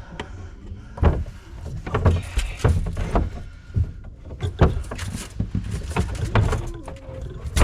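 Irregular knocks, clunks and scrapes of hand tools and metal fittings being worked under a kitchen sink while an old faucet is disconnected.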